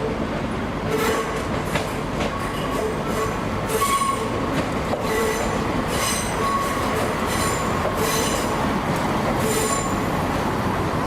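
ScotRail Class 170 Turbostar diesel multiple unit pulling into the platform, with a pitched squeal from wheels or brakes recurring about once a second over the running rumble as it slows.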